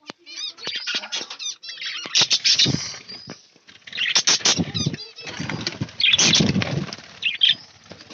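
Budgerigars chirping, with several louder bursts of wing flapping.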